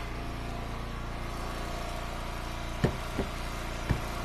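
Gas engine of a firewood splitter running steadily. Three short sharp knocks sound over it in the second half.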